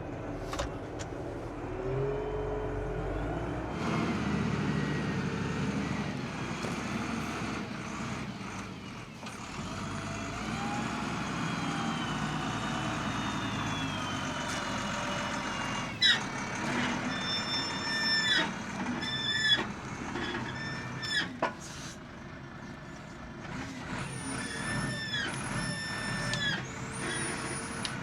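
Heavy vehicle running while being manoeuvred slowly, its brakes giving several short high-pitched squeals in the second half.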